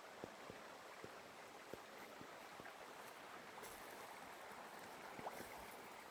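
Faint, steady rush of flowing river water, with a few soft scattered clicks.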